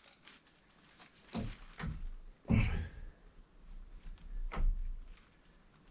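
A few dull knocks and thumps of things being handled, the loudest about two and a half seconds in and another near the end.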